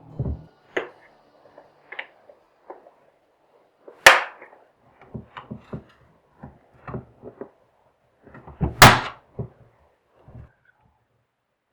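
Plastic snap clips of an Acer Aspire V5-561P laptop's top cover popping loose as it is pried open with a flathead screwdriver. Two loud sharp snaps come about four and nine seconds in, with smaller clicks and knocks between them.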